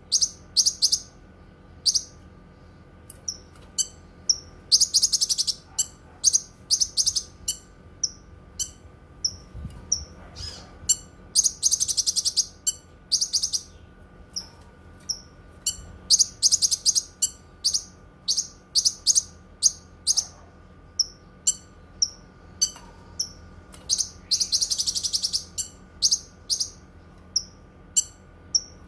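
Cucak kinoi singing: a run of short, high-pitched chirps broken several times by rapid trills about a second long.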